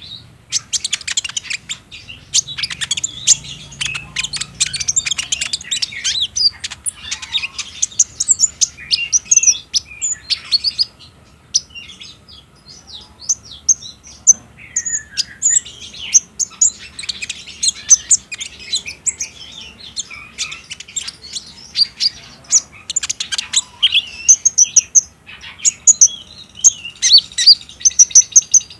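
Kolibri ninja sunbird singing a rapid, high-pitched chattering song ('trotol'), a dense run of quick chirps and trills that thins out briefly about halfway through.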